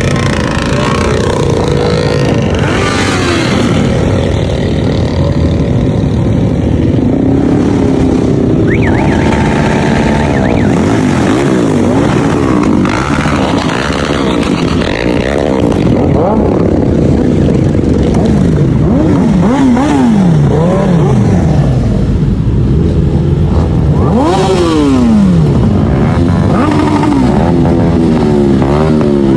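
Motorcycle engine, a Honda VFR750's V4, running under way, its revs rising and falling again and again through the gears.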